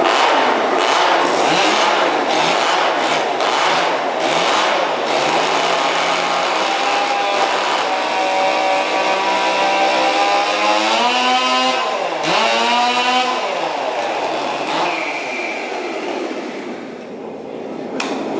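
Two-stroke chainsaw running hard in a cutting contest, its engine note swinging up and down several times as it revs, then easing off near the end.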